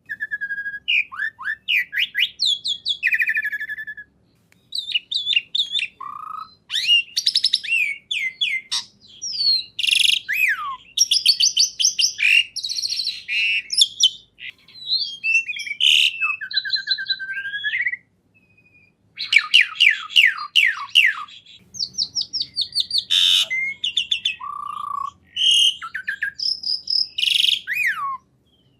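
A songbird singing a long, varied song of rapid falling notes, fast trills and whistles in quick phrases, with a few short pauses.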